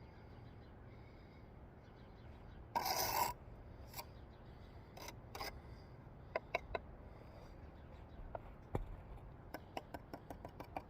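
Bricklaying work: a short scrape of a steel trowel over mortar and brick about three seconds in, followed by scattered light taps and clicks as bricks are set.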